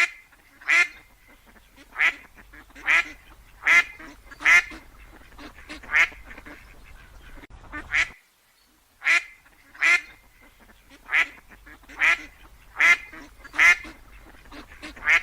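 A bird giving short, harsh calls about once a second, with a brief silent break about halfway through.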